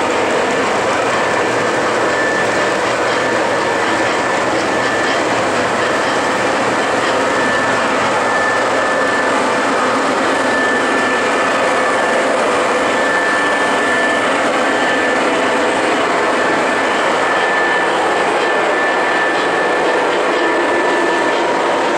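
O-scale model train running along the track: a steady, dense rumble of wheels and motor with a thin high whine.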